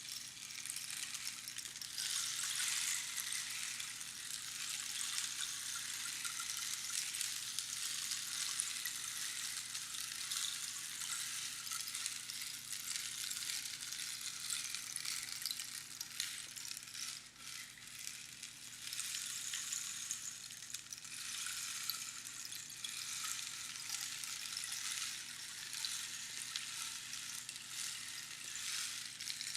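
Rainstick being tipped, its pebbles trickling down past the inner pins in a continuous rain-like hiss. The hiss swells about two seconds in and dips briefly around seventeen seconds.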